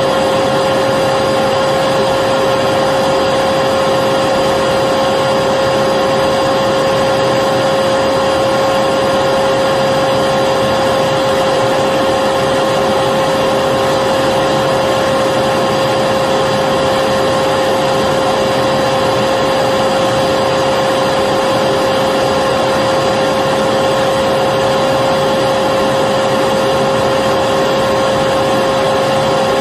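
Electric vacuum cleaner running continuously, a steady whine over an even rush of air.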